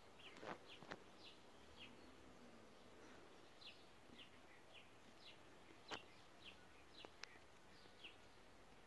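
Faint, repeated chirping of a small bird: short high notes at about two a second. A few soft clicks fall among them, the sharpest about six seconds in.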